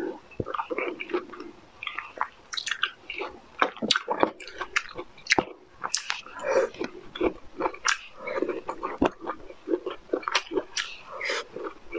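Close-miked eating sounds: a person biting and chewing broccoli florets, heard as many sharp, irregular clicks and wet mouth smacks.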